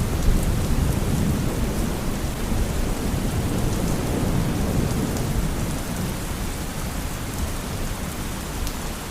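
Steady rain falling, with a low rolling thunder rumble that slowly fades.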